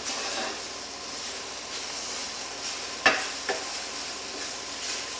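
Spinach, steamed sweet potato and spiced onions sizzling in a frying pan as they are stirred, the spinach wilting down in the heat. A sharp knock about three seconds in, and a lighter one just after.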